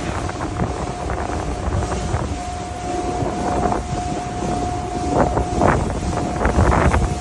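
Compressed air blown through the fire-side tube bank of an ship's exhaust gas economizer, hissing in irregular short bursts over a steady low rumble and a steady whine.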